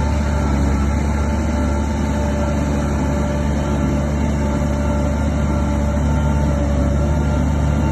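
Heavy diesel engine of earthmoving machinery running steadily under load, a deep even drone with no breaks.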